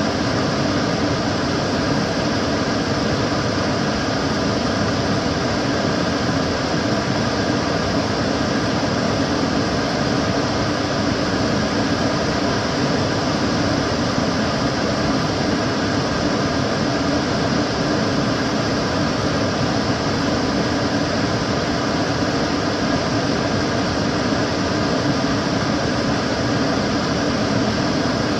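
Kitchen cooker hood extractor fan running steadily: a constant rushing whoosh of air with a faint steady hum under it.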